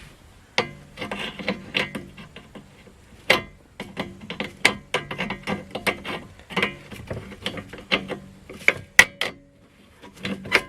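Irregular clicks, taps and scrapes of small metal parts as a heater control cable is pried and worked off the heater box of a 1966 Ford Mustang, over a faint steady low hum.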